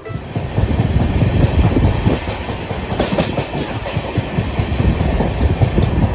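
Passenger train running on the rails: a continuous heavy low rumble of the wheels and coaches, with faint scattered clacks.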